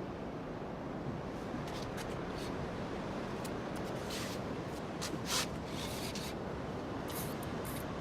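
Steady rush of wind and sea noise aboard a small fishing boat, with short scraping and rubbing sounds close to the microphone, the loudest about five seconds in.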